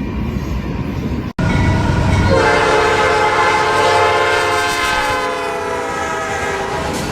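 Five-chime air horns of GE AC44C6M locomotives sounding over the low rumble of the moving train. One horn chord ends at a sudden cut about a second in. A second, louder blast starts about two seconds in and is held, dropping slightly in pitch as it goes on.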